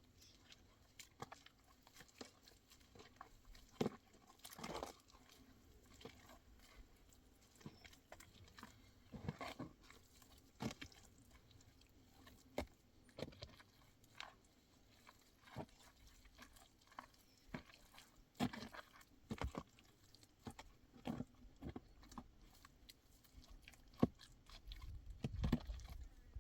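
Scattered small clicks, crunches and knocks at irregular intervals, with a low rumble near the end.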